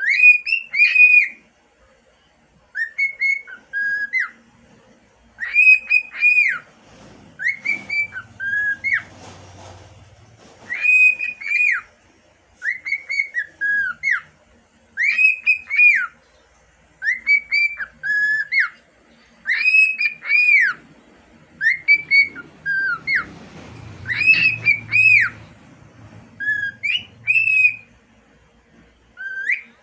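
Six-month-old cockatiel whistling its song: short phrases of arching and falling whistled notes, one after another, a new phrase about every two seconds.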